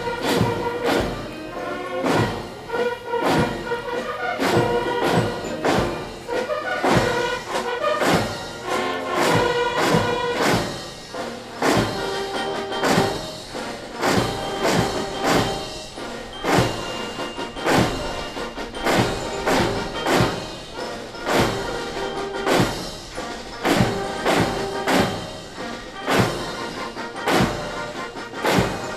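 Military band playing a march: a steady drum beat about twice a second under sustained melody notes.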